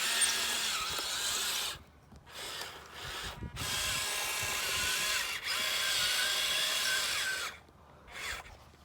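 Electric motor and gearbox of a toy RC military truck whining as it drives, the pitch rising and falling with throttle. It runs for about two seconds, stops briefly, then runs again for about five seconds with two short dips.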